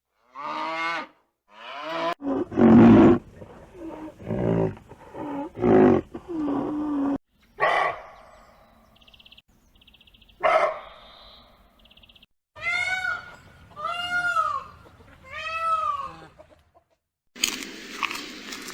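A run of separate animal calls from different clips: several loud, rough calls in the first half, a faint rapid ticking, then four calls that each rise and fall in pitch.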